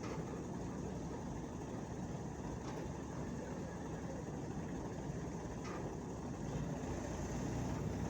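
A steady, low engine rumble, with a couple of faint clicks.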